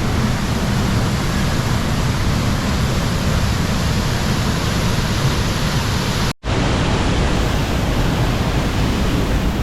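A waterfall's steady roar of falling water, cutting out briefly about six seconds in.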